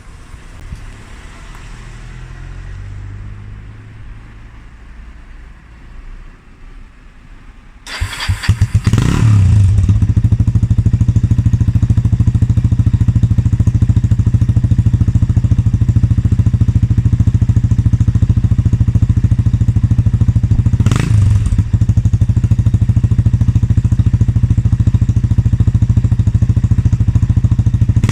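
Kawasaki Estrella's single-cylinder engine, breathing through a Daytona steel aftermarket muffler, starting about eight seconds in and then idling with a loud, fast, even popping exhaust beat, with a brief blip of throttle about two-thirds of the way through.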